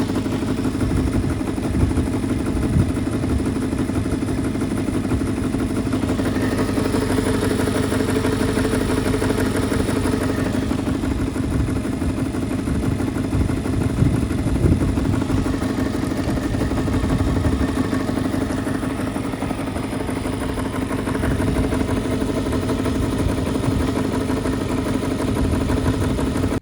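1970 Mitsubishi Minica 360 GSS's 360cc two-stroke twin with twin Solex carburettors, running steadily.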